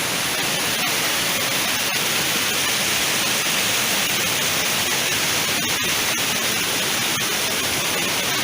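Steady rush of the Jumog waterfall's falling water: a loud, even hiss with no let-up.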